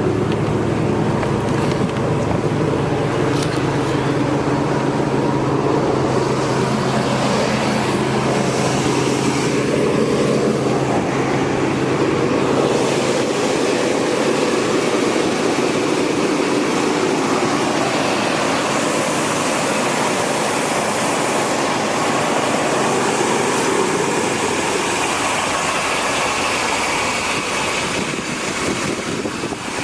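A car engine running steadily, with a low steady hum that drops out about 13 seconds in.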